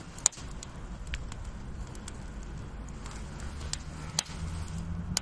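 Campfire crackling: scattered single sharp pops over a low steady hum.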